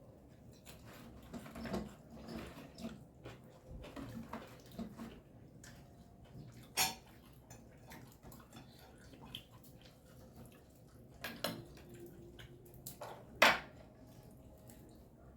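Kitchen clatter: dishes and utensils clinking and knocking irregularly, with two sharper knocks about 7 and 13 seconds in, the second the loudest.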